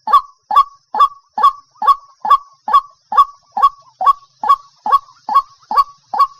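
White-breasted waterhen giving its monotonous call: a single short, hoarse note repeated evenly a little over twice a second, about fifteen times.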